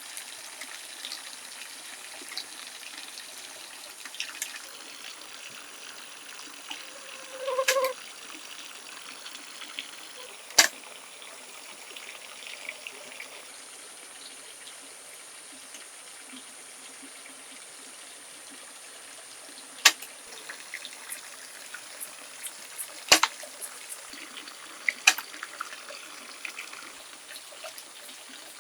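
Water trickling steadily, with a few sharp knocks standing out over it, the loudest about ten and twenty-three seconds in.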